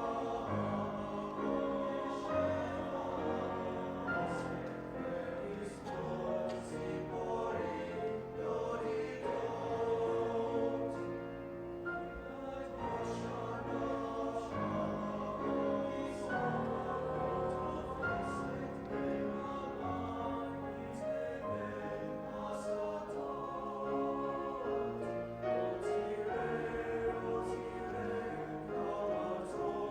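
High school choir singing, many voices holding chords that change every second or two.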